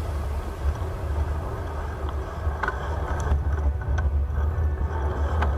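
Wind rumbling on the microphone of a camera riding along on a moving bicycle, over steady road and traffic noise, with a few faint clicks.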